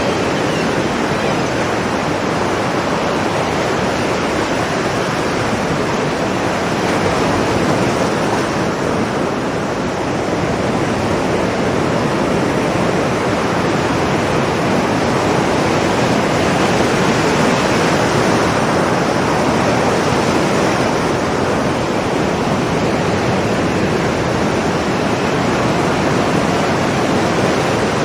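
Ocean surf breaking and washing against rocks on a beach, a continuous rushing that eases slightly about ten seconds in and builds again.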